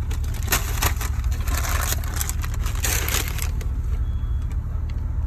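A car's low engine rumble, with a stretch of crinkling, rustling noise from about half a second to three and a half seconds in.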